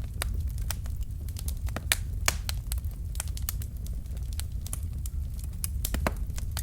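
Burning logs in a fireplace crackling, with irregular sharp pops over a steady low rumble of the flames.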